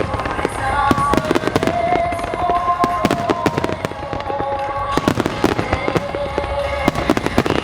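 Fireworks display: a dense run of sharp bursts and crackling reports, many overlapping, over music with a slow, held melody.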